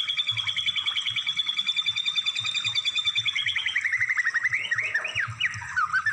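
Songbird song from a bird-tutoring (masteran) recording: a fast, even high trill, then about halfway through a falling run of notes that breaks into varied whistled slurs and chips.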